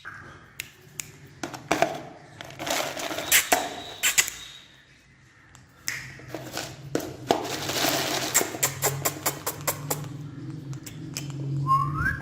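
A parrot hopping and scrabbling about on a stair: irregular taps and knocks with stretches of rustling, and one short rising chirp near the end.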